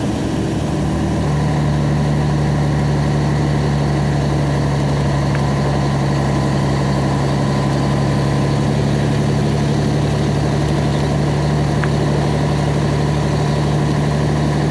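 Truck engine running steadily under load, heard from inside the cab; its drone steps up and grows louder about a second in, then holds even.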